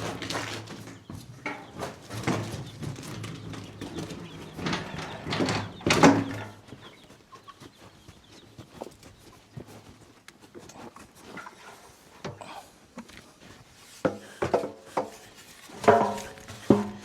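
Chickens clucking in short pitched calls, loudest about six seconds in and again near the end, over scattered knocks and clatter. A low hum fades out in the first few seconds.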